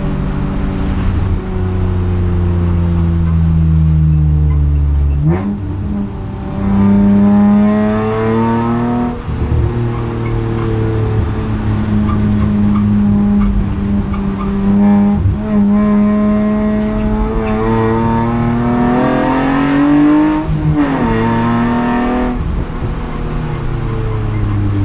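Race car engine heard from inside the cockpit, climbing in pitch under throttle and breaking off sharply at gear changes several times, with steadier stretches in between.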